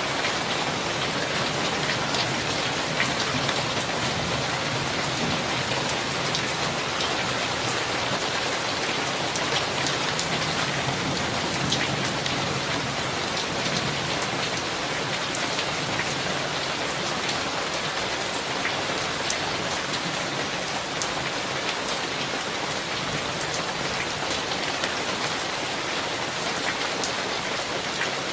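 Steady heavy rain from a summer thunderstorm, with many individual drops ticking sharply on a surface over the even hiss of the downpour.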